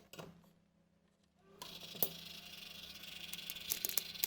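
Computer fans spinning up as the motherboard is powered on: after a couple of clicks near the start, a steady whirring hiss comes in about a second and a half in and keeps going, with small clicks on top.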